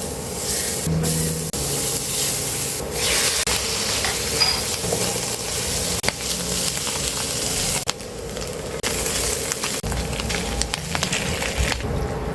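Food sizzling in a hot frying pan while being stirred, the hiss breaking off and restarting abruptly several times.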